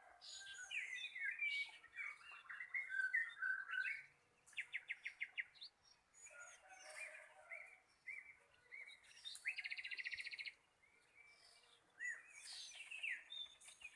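Several wild songbirds calling and singing together, a mix of short chirps and whistled notes, with two fast runs of rapid repeated notes about five and ten seconds in.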